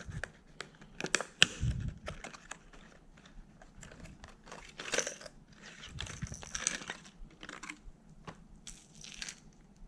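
Plastic fishing-lure packaging being handled and opened: irregular crinkling and rustling with sharp clicks, the loudest click about a second and a half in.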